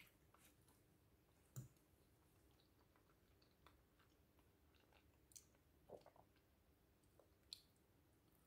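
Faint chewing of a sticky glutinous rice cake, with a handful of short clicks spread through.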